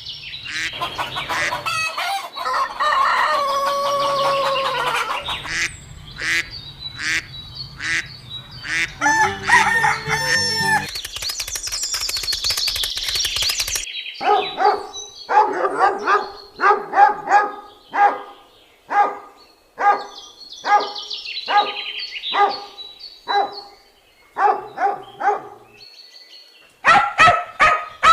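Domestic fowl calling: a long crow-like call in the first few seconds, then a long series of short, evenly repeated calls at about two a second, with a fresh burst of calls near the end.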